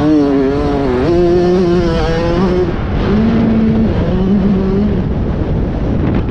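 Motocross bike engine revving under riding, its pitch climbing about a second in, holding, then dropping near the three-second mark and running lower, over a steady rumble of wind and track noise.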